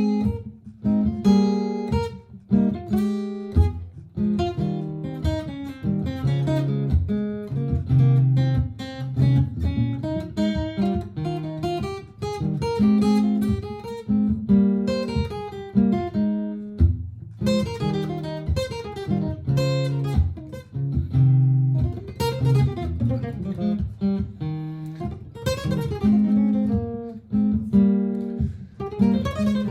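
Martin GPCPA4 acoustic-electric guitar playing through a looper: a looped strummed chord pattern with improvised picked notes over it.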